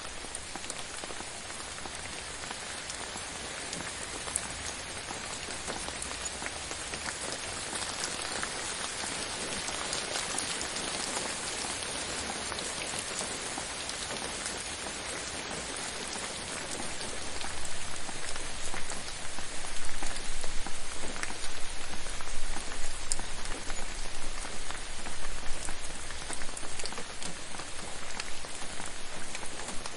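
Steady rain falling on a surface, a dense hiss with many individual drop taps, growing louder and more uneven in the second half.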